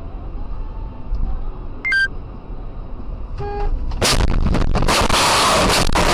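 Dashcam recording of a car driving, with a steady low road rumble, a short electronic beep and a brief horn-like tone. About four seconds in, a sudden loud crash noise with impacts stays loud to the end.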